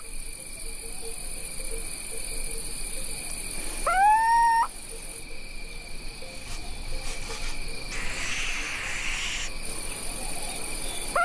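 An owl giving a drawn-out call that rises and then holds, once about 4 seconds in and again at the very end, over crickets chirping steadily throughout. A brief rustle is heard around 8 seconds in.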